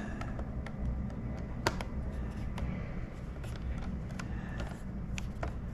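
Scattered small clicks and taps as the plastic housing and screws of a Logitech Extreme 3D Pro joystick are handled during disassembly, over a steady low background hum of game audio.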